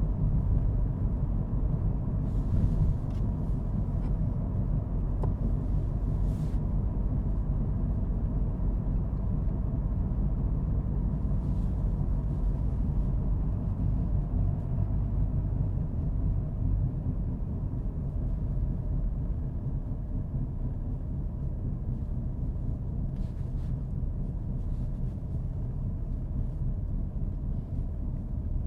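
A car driving at a steady pace: low, even rumble of engine and road noise, with a few faint ticks here and there.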